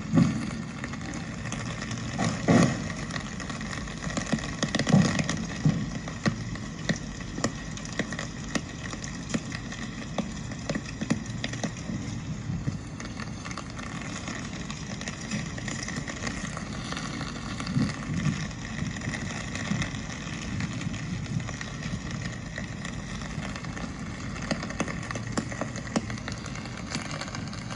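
Steady rain ambience on a city street, full of small ticks of falling drops, with a few louder low thumps in the first few seconds.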